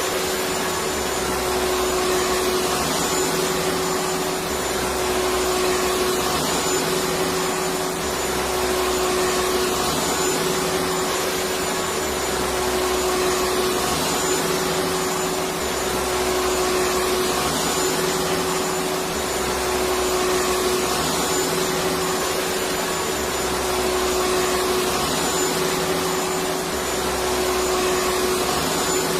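Electric vacuum cleaner running steadily: an even rush of air with a constant motor hum, unbroken throughout.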